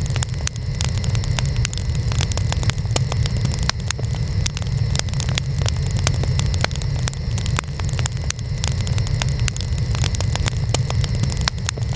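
Wood fire burning, with dense, irregular crackles and pops of the burning wood over a steady low rumble.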